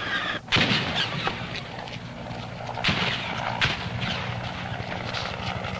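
Scattered gunfire in battle: after a brief dropout, a loud crack about half a second in, then several more single shots. A low steady drone runs underneath.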